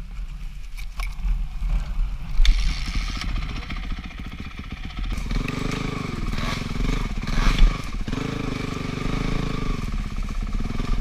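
Dirt bike engine running, a steady fast pulse at first, then louder about five seconds in, its pitch rising and falling as the throttle is worked.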